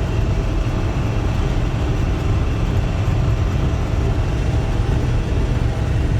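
Self-propelled swather running steadily while cutting, a loud, even low engine and machinery rumble.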